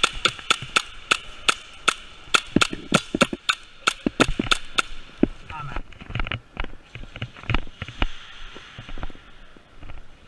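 Airsoft gun firing a quick string of shots, about four a second, for roughly five seconds. Scattered fainter shots and knocks follow.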